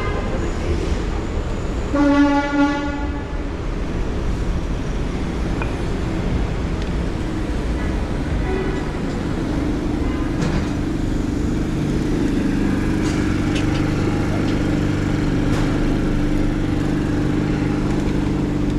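A vehicle horn honks about two seconds in, one short blast of about a second with a brief break, over steady street-traffic rumble. From about ten seconds a steady low engine drone sets in and holds.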